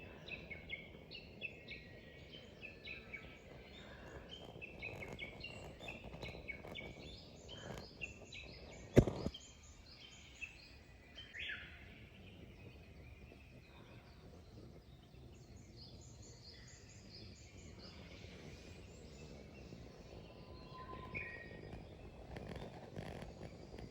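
Wild songbirds chirping and singing over a steady outdoor background, many short high notes overlapping. A single sharp knock about nine seconds in.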